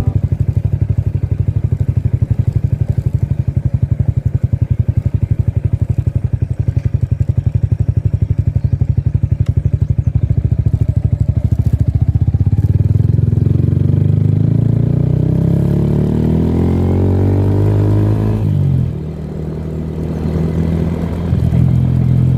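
Engine running with a fast, even pulsing beat, then revving up steadily in pitch for several seconds, dropping off sharply and running on at a lower pitch near the end.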